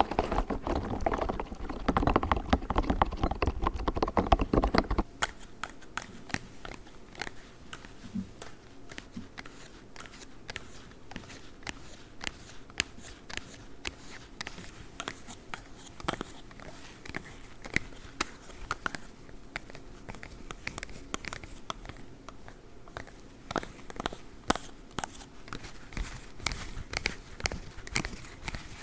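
Close-miked handling of a rubbery spiky toy ball, squished and rubbed in a dense crackly rustle that stops about five seconds in. Then a run of quick, irregular sharp taps and clicks from plastic claw-tipped gloves tapping and scratching.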